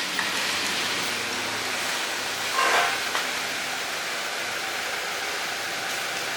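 A steady, loud hiss, with a brief higher-pitched squeal about two and a half seconds in.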